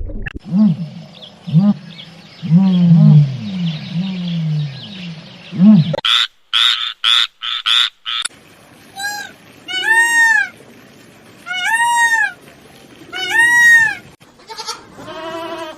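A run of farm animals' calls: low repeated calls for the first six seconds, a short burst of harsh cries, then four high arched calls about every second and a half and a fast quavering call near the end.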